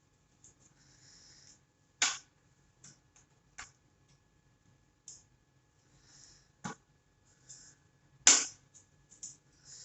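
Handling noise from work on a car charger cord: four sharp clicks or knocks, the loudest about eight seconds in, with faint rustling between them.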